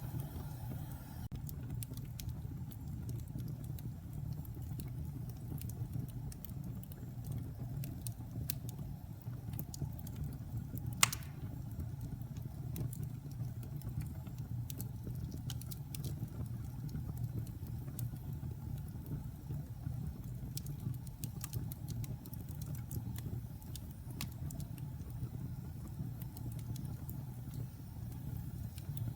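Wood logs burning in a fireplace, crackling with scattered small pops over a steady low rumble. One much louder pop comes about eleven seconds in.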